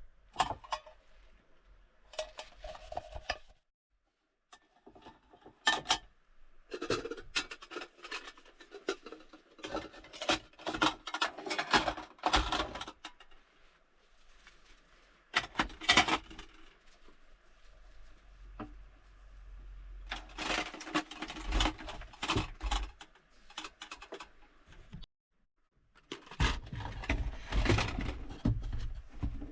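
Intermittent handling noises: clattering, clicking and rubbing of objects in separate bursts with pauses between, cut off abruptly twice.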